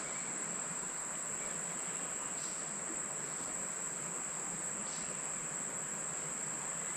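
Steady, unbroken high-pitched insect chorus of late-summer crickets or katydids, trilling without a break.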